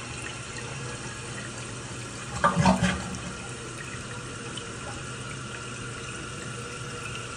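Water running steadily as a toilet bowl fills through a hose from a homemade supply tank. A brief louder sound stands out about two and a half seconds in.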